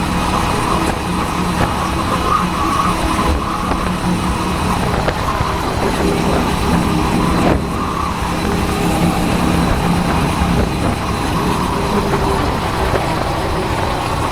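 Motorcycle engine running steadily while riding, picked up by a helmet-mounted camera along with rushing wind noise. Its note dips and breaks briefly about halfway through.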